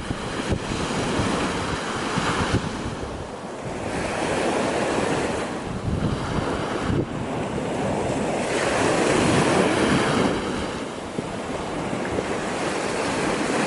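Sea waves breaking and washing on the shore, swelling and falling back about three times, roughly every four seconds. Strong wind buffets the microphone throughout.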